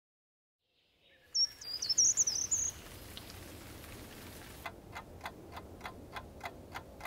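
After about a second of silence, a bird chirps in a short twittering phrase over a faint outdoor background. About two-thirds of the way in, a steady ticking starts, about three ticks a second.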